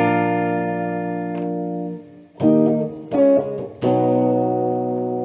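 3D-printed Stratocaster-style electric guitar, with 9-gauge strings tuned down a half step, strummed clean. A chord rings out and fades for about two seconds, two quick strums follow, then another chord is struck and left to ring.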